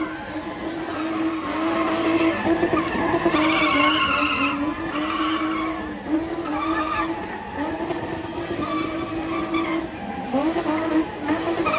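A spinning car's engine held at high revs while its rear tyres skid and squeal. The revs dip briefly a few times and climb back, with a rise about ten seconds in.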